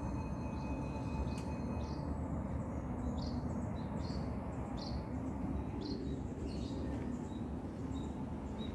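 Outdoor background noise, steady and low, with a small bird giving short high chirps about once a second through the middle stretch.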